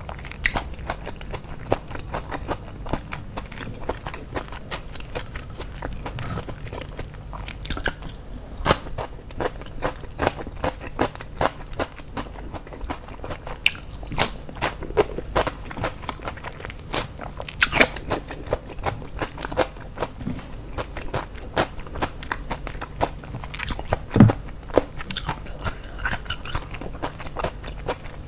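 A person chewing and crunching mouthfuls of fried chicken, rice and raw cucumber close to the microphone, with constant irregular wet mouth clicks and crisp crunches; a few crunches stand out louder than the rest.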